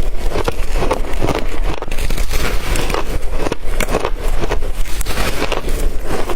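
Shaved ice being chewed and crunched close to the microphone: a dense, irregular run of sharp crackling crunches.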